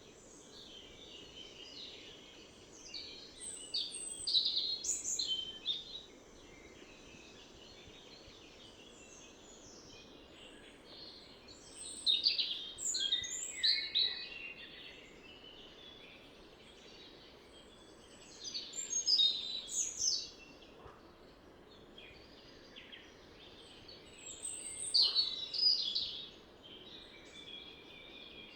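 A songbird sings four short bursts of quick, varied song a few seconds apart, over a steady rush of river water.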